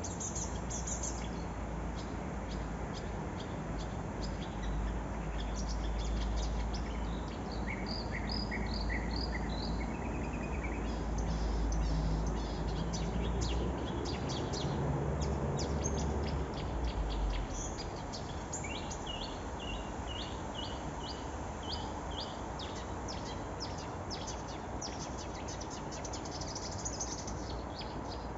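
A small songbird singing in quick runs of short, high chirps and trills. Wind buffets the microphone as a low rumble that dies away a little over halfway through.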